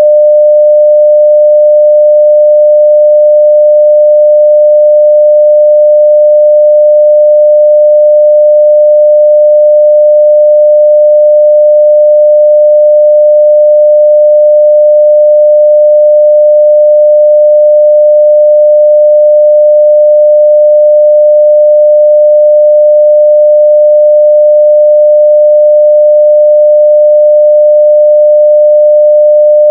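A steady 600 Hz sine-wave test tone at full level (0 dB), one pure pitch held without change.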